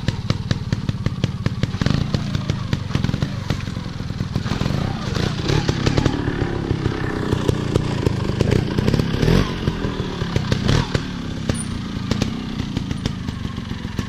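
Off-road motorcycle engines running and revving, rising and falling in pitch, with many sharp clicks and knocks over the top.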